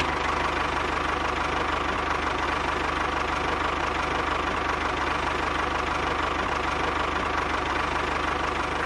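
An engine running steadily at an even speed, with a fast regular beat and no change in pitch.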